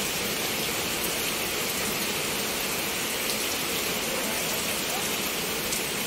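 Steady rain falling: an even, unbroken hiss with a few faint scattered ticks of drops.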